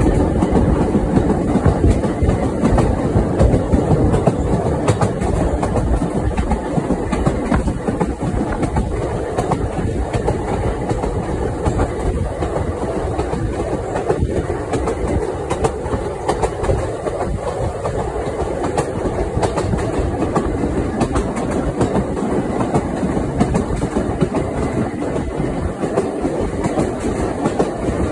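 Steady running noise and wheel clicks over rail joints, heard from aboard a moving vintage electric railway car.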